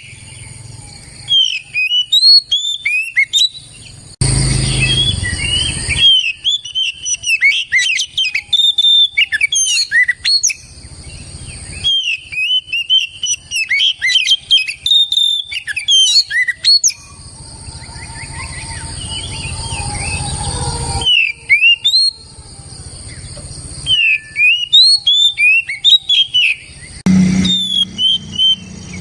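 Oriental magpie-robin (kacer) singing in full song: a fast, varied stream of sharp whistled notes and slurs rising and falling. The song is interrupted twice by a harsh, hissing stretch, one about two seconds long and one about four.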